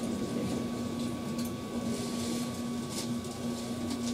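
Steady hum inside a Keihan 8000 series train car, one low constant tone with a fainter higher one, with faint scattered ticks.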